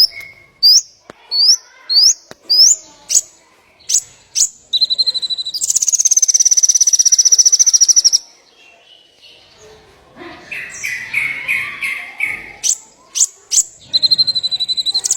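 Small songbird calling: a run of quick upswept chirps about twice a second, then a long rapid high trill lasting over two seconds, then a burst of lower pulsed notes and a few sharp chips near the end.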